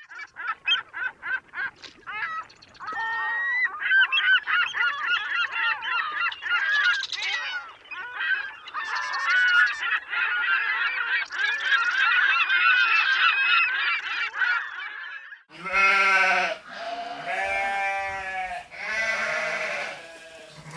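A flock of birds calling, many short calls overlapping in a dense chatter for about fifteen seconds. Then it cuts to sheep bleating in long separate calls: two stock animal sound effects played back to back.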